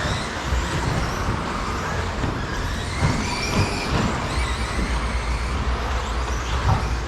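Electric stadium trucks with 13.5-turn brushless motors racing around a track: faint high motor whines rise and fall as the trucks speed up and slow down, over a steady low rumble.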